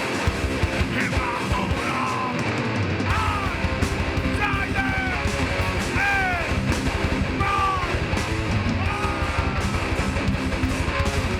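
Heavy hardcore/metal band playing live: loud distorted guitars and drums, with the low end getting much heavier about three seconds in. Short falling high-pitched squeals cut through every second or two.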